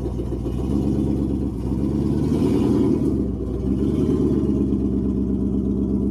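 Off-road vehicle's engine running, heard from inside its cab. Its revs rise about a second in and are held up, with a short dip near the middle, as it takes up the tow to pull the stuck LuAZ backward.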